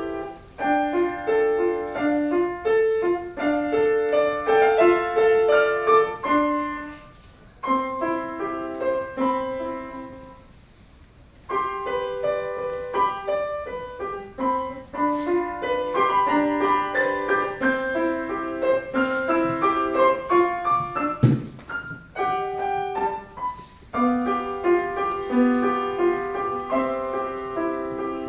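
Solo piano playing a melody over a repeating accompaniment, falling almost silent for a few seconds about eight seconds in before the playing resumes. A single sharp knock, the loudest thing in the passage, sounds about 21 seconds in.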